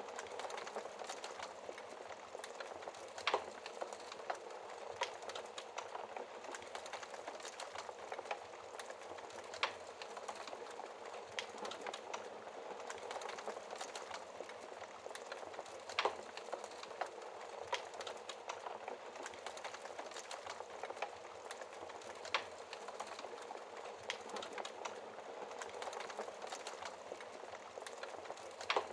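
Wood fire burning in a fireplace: a steady low hiss and rustle of flames with frequent small crackles and an occasional louder pop.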